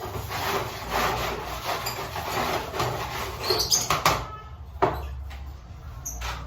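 Lovebirds stirring in a cage: steady rustling, a couple of sharp knocks about four and five seconds in, and a few short high chirps.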